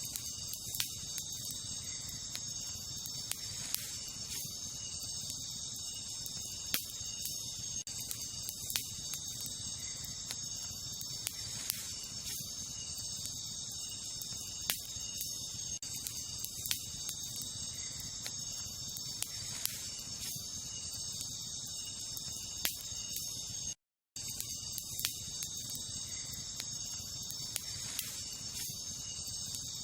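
Wood campfire crackling, with scattered sharp pops at irregular intervals, over a steady high-pitched chorus of crickets. The sound cuts out for a moment about three-quarters of the way through.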